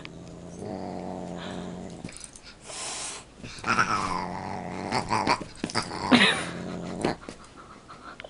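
Cat growling low and steadily, with a hiss about three seconds in and a few short falling cries.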